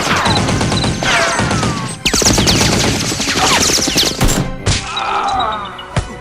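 Dense rapid gunfire sound effects, a fusillade of shots mixed with falling whistling sweeps, thinning out after about four seconds to a few single sharp shots.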